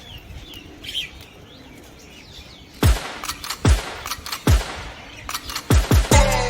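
Small birds chirping in a quieter stretch, then from about three seconds in a series of sharp, bass-heavy hits that come faster and faster toward the end.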